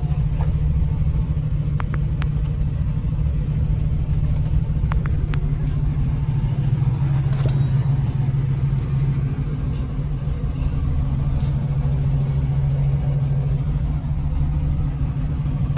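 Car audio system with Incriminator Audio subwoofers playing a deep, steady bass note at high volume.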